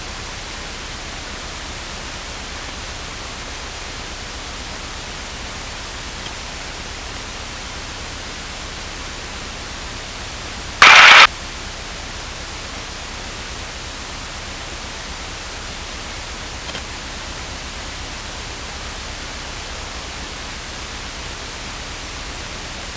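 Steady hiss of an aircraft radio and intercom feed during a gap between transmissions. About 11 seconds in, a brief loud burst of static cuts in and stops, like a radio transmission keyed for only an instant.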